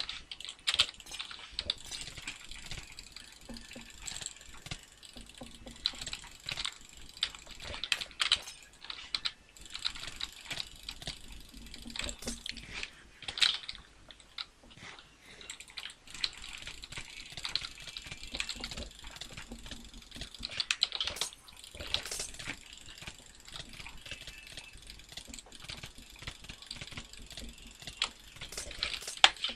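Dense, irregular clicking close to the microphone, several clicks a second, with sharper, louder clicks standing out now and then.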